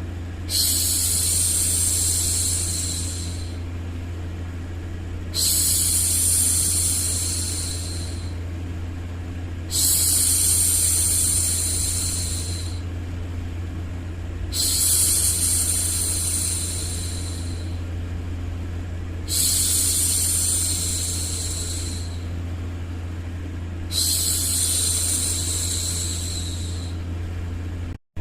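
A woman's voice making long hushing "shhh" sounds to soothe a baby, six in all, each lasting two to three seconds and coming about every five seconds, over a steady low rumbling white-noise bed. The sound cuts out for an instant near the end.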